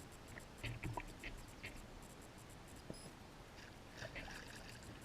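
Faint lakeside water sounds, a soft trickling and lapping, with short high ticks scattered through and a couple of low knocks about a second in.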